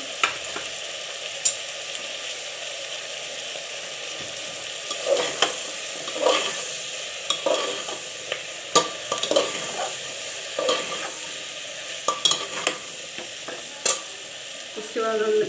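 Vegetables and spices sizzling in hot oil in an open pressure cooker, with a long metal spoon stirring and knocking against the pot. The sizzle is a steady hiss; the clicks and scrapes of the spoon are scattered, and come more often from about five seconds in.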